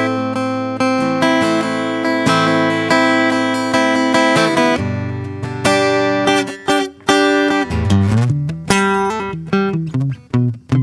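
Acoustic guitar playing slow improvised music: plucked notes and chords ringing out, with single low bass notes stepping up and down through the second half.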